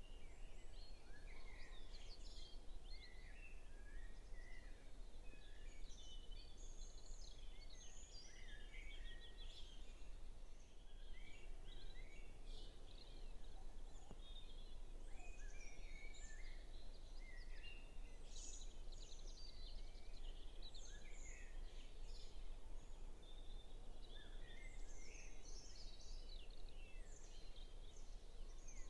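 Dawn chorus of many songbirds singing at once, a dense overlapping run of short chirps, whistles and trills, faint through a phone's microphone. A steady low rumble of background noise lies underneath.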